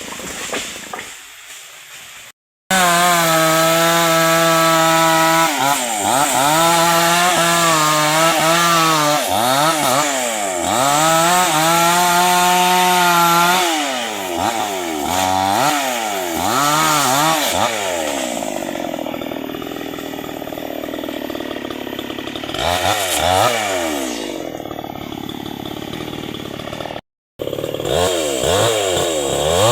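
Two-stroke chainsaw cutting into acacia hardwood at high revs. The engine pitch holds steady for stretches, then repeatedly sags and climbs as the chain loads up in the cut and frees again. The sound is quieter for the first couple of seconds and cuts off abruptly twice.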